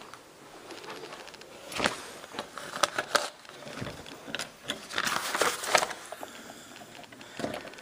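Irregular handling and movement noises from a person walking a room with a camera: clicks, rubs and light scrapes, bunched about two, three and five seconds in, with one more near the end.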